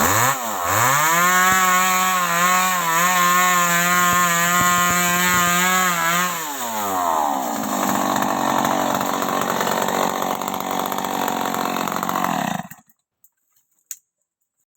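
Stihl MS 381 two-stroke chainsaw revved up and held at high speed for about five seconds, then dropping back, followed by a rougher, noisier running stretch. The sound cuts off abruptly near the end.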